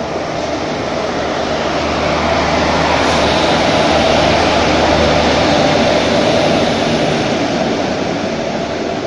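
WAG-7 electric locomotive hauling a passenger train through the station without stopping, its wheels rumbling on the rails over a steady low hum. The sound swells to its loudest about four to six seconds in as the locomotive goes past, then eases as the coaches roll by.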